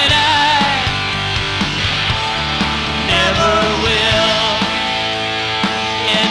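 Rock band playing live: an instrumental passage with electric guitar, bass and drums, a lead guitar line bending in pitch over the band.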